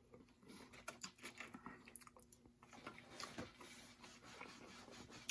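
Faint chewing and mouth sounds of someone eating chicken wings, with soft irregular clicks and smacks.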